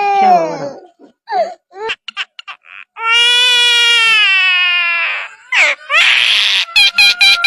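A bird giving loud wailing, cry-like calls: a few quick short notes, then one long drawn-out cry of about two seconds, then a rapid run of short notes near the end.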